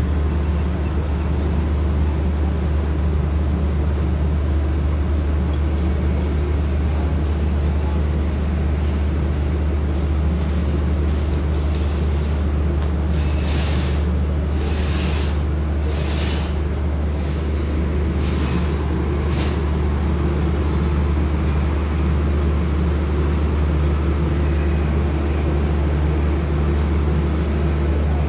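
Diesel engine of a standing passenger train running at idle, a steady low hum and rumble. About halfway through come five or so short hisses of compressed air from the air brakes.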